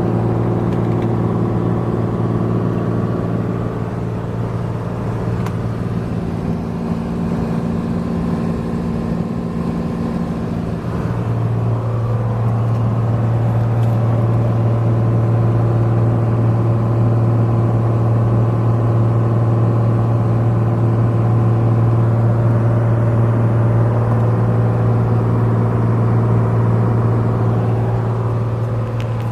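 Cessna 182's single piston engine and propeller droning steadily in flight, a low pitched hum with overtones. The tone blurs and wavers for several seconds about a quarter of the way in, then settles back to a steady drone.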